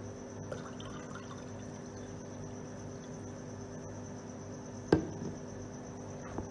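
Pure water being poured into red cabbage indicator solution, faint over a steady background hum, with one sharp knock about five seconds in.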